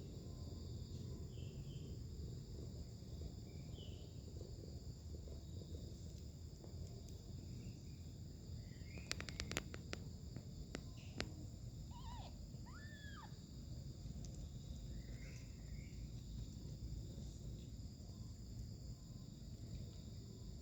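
Steady, high-pitched chorus of insects over a low background rumble. A few sharp clicks come about halfway through, followed by a couple of short rising-and-falling calls.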